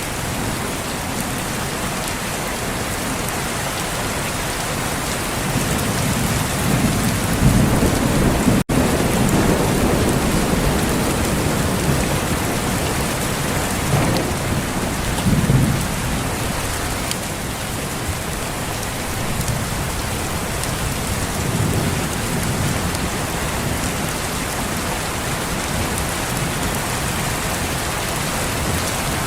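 Steady rain with thunder rumbling low, swelling about six to ten seconds in and again around fifteen seconds. The sound cuts out for a split second near nine seconds.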